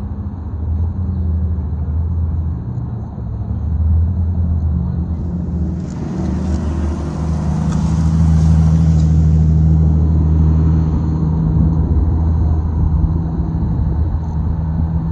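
Car engine running at low revs, a steady low drone, which grows louder about halfway through as it comes close and then eases off.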